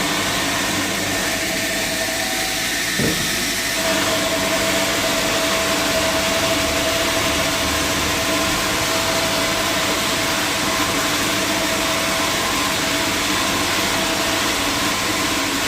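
Large sawmill machinery running steadily, a loud mechanical drone with a steady hum. There is a short knock about three seconds in, and the sound shifts slightly about a second later.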